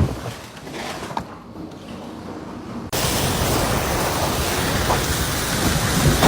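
Storm wind rushing, at first fairly quiet, then cutting abruptly to a louder, steady hiss about three seconds in.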